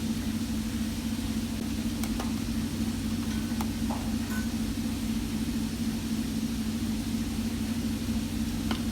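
Steady low mechanical hum that holds level throughout, with a few faint clicks over it.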